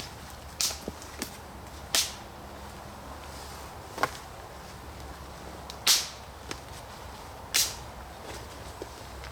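Dead wood being snapped for firewood: six sharp cracks several seconds apart, the loudest about six seconds in.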